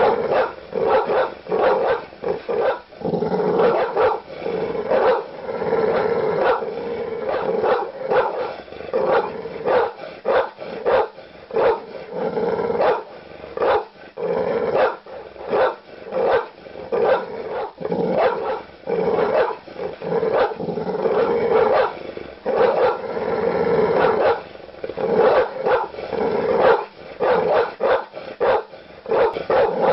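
Large dogs barking aggressively in deep woofs, a dense run of barks several a second without a pause.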